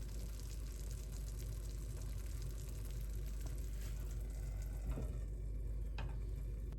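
Food sizzling in a pan with a fine crackle, which dies down about two-thirds of the way through. Two light knocks follow near the end.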